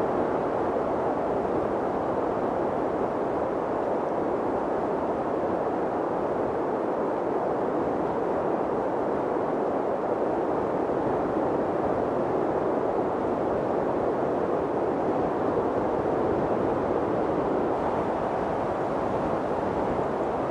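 Steady mountain wind rushing: an even, unbroken hiss, strongest in the middle range, with no gusts or breaks.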